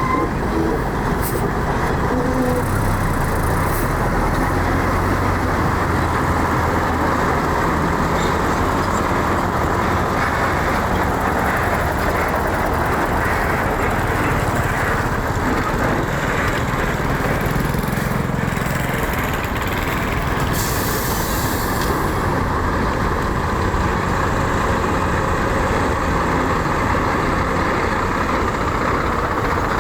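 Heavy diesel earthmoving machinery running steadily at a construction site, with a short hiss about two-thirds of the way through.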